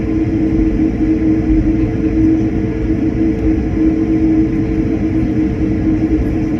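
Airliner cabin noise in flight: a loud, even rumble with a steady droning hum over it.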